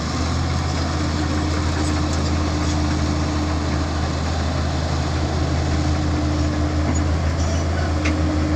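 Dump truck's diesel engine running steadily at idle, with a low, even hum.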